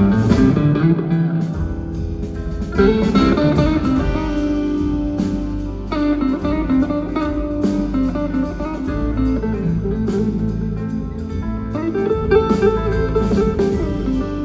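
Slow blues led by electric guitar, with held, bending notes over a band and a steady beat.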